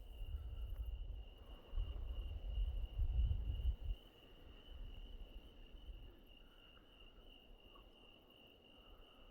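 Crickets chirping, one steady high trill without a break. A low rumble comes and goes in the first few seconds and then dies away.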